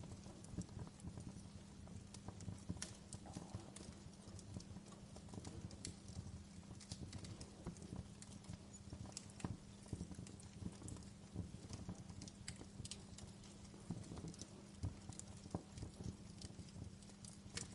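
Wood fire burning in a fireplace, crackling with irregular pops and snaps from the burning logs over a low steady rumble.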